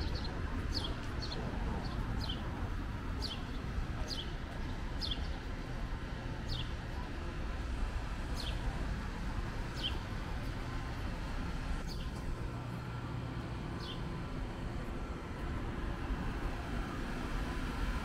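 Street ambience: a steady low rumble of city traffic, with a bird giving about a dozen short, sharply falling chirps, close together at first and more spaced out later, stopping a few seconds before the end.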